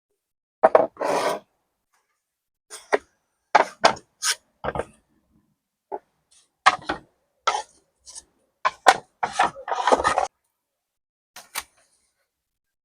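A series of separate knocks, clatters and rubbing sounds of objects being handled and set down, about fifteen in all, irregularly spaced with dead silence between them.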